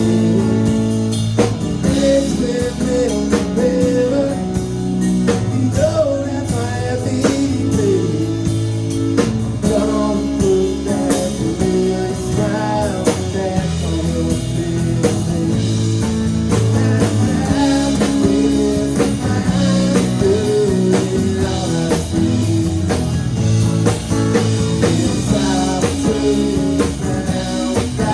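Live band playing a blues-rock jam: a wavering guitar lead line over bass and a steady drum beat.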